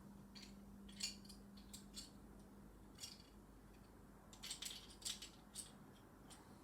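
Faint, scattered clicks and small rattles of plastic Lego pieces being handled and fitted together, some coming in quick little clusters.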